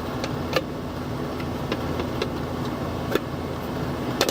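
Residential HVAC condensing units running outdoors: a steady mechanical hum, with several short sharp clicks scattered through it.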